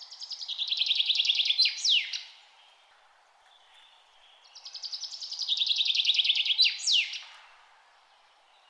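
A songbird sings the same song twice: a fast trill of evenly repeated high notes that swells, then ends in a sharp falling note. A faint steady background noise runs underneath.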